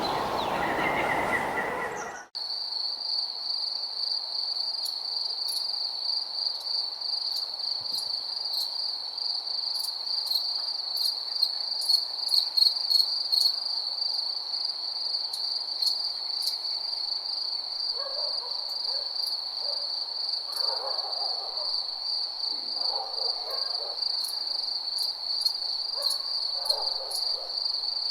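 Night insects, crickets, trilling in a steady high pulsing chorus that cuts in abruptly about two seconds in, replacing a different nature ambience. Several short, lower calls, owl-like hoots, come in over the trill in the second half.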